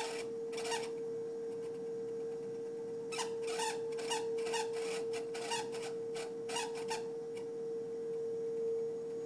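A failing refrigerator with a steady high-pitched hum and, over it, a run of short rasping squeaks, most of them between about three and seven seconds in.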